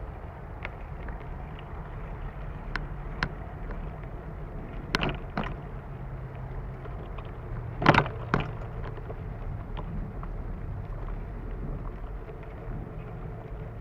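Bicycle riding along a dirt trail: a steady low rumble of tyres and wind, with sharp rattles and knocks from the bike going over bumps. The loudest rattle comes about eight seconds in.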